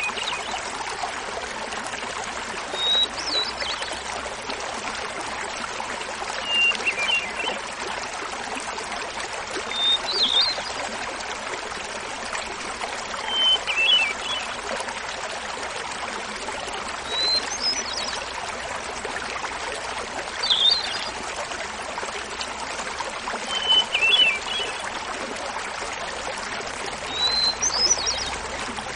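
Small mountain waterfall splashing steadily while a hermit thrush sings about every three and a half seconds. Each phrase is a held opening note followed by a quick flute-like flourish, and the phrases alternate between lower and higher pitches.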